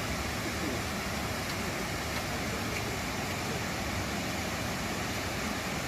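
Water pouring over a dam and falling in a steady, unbroken rush of noise.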